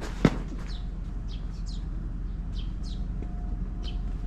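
Small birds chirping, short high calls sliding downward, a couple each second. A single sharp knock sounds about a quarter second in, over a steady low hum.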